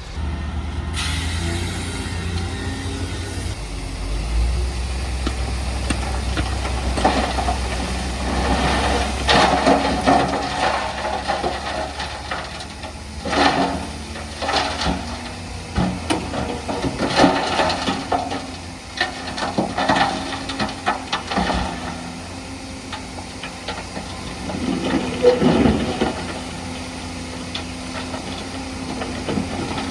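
Diesel engine of heavy earthmoving machinery running steadily, with irregular metallic clanks and rattles from about seven seconds in.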